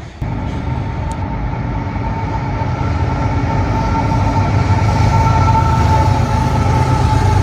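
Diesel locomotive running and growing steadily louder as the train approaches, a low rumble with a steady whine above it. The sound comes in abruptly a moment after the start.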